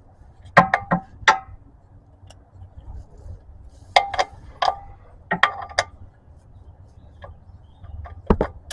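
Metal tool clicks from a 17 mm wrench working the oil pan drain bolt loose: four short runs of sharp clicks, a few in each run, near the start, twice in the middle and near the end.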